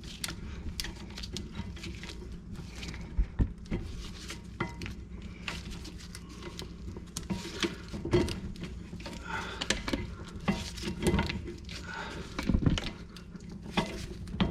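Scattered metallic clicks, clinks and a few louder knocks from hand tools and a C-clamp being worked on a brake caliper, pressing its piston back in.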